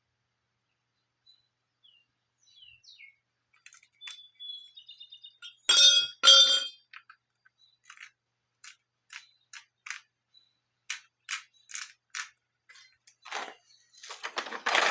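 Metal braces being handled and set down on concrete: a few light clinks, then two loud clanks that ring briefly about six seconds in. A run of sharp separate clicks and taps follows, with rougher handling near the end.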